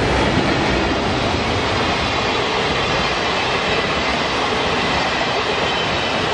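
A train of old-style passenger coaches passes close by at speed, a loud, steady rush and rumble of steel wheels on the rails. The rear EF65 electric locomotive goes by near the end.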